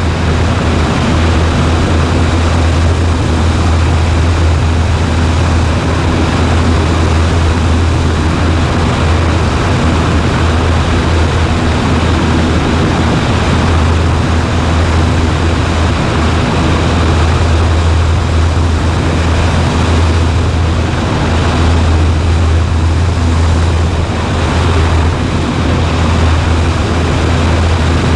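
Cessna 140A's piston engine and propeller droning steadily in flight, heard from inside the cockpit, with a strong low hum and no change in power.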